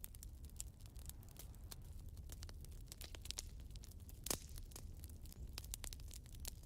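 Wood fire burning in a fireplace: irregular crackles and pops over a low steady rumble, with one louder pop a little past four seconds in.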